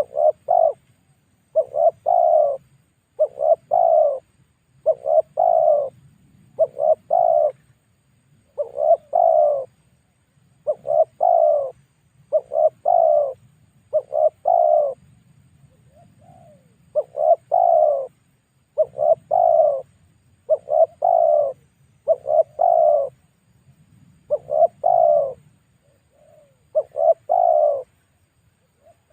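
Spotted dove cooing over and over, a lure call: short coos repeated about every second or two, in runs broken by brief pauses.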